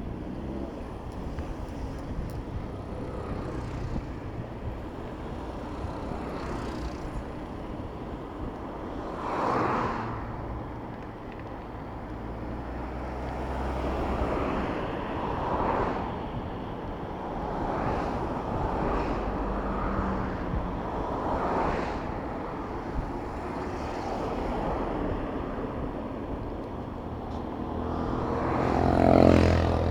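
City road traffic heard from a bicycle in the flow of cars: a steady rumble of engines and tyres, with vehicles passing close by about five times. Near the end a loud engine passes closest, its pitch falling as it goes by.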